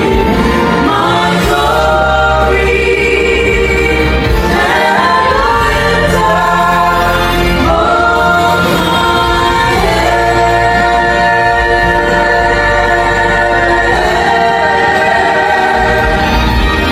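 A vocal group singing in close harmony, several voices holding chords and gliding between notes over a steady low bass.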